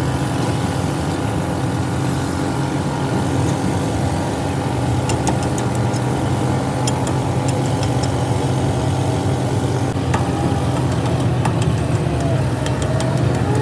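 Heavy vehicle engine idling steadily, with a few light clicks about five seconds in and again near the end.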